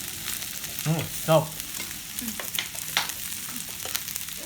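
Food sizzling steadily on a grill, with scattered light clicks.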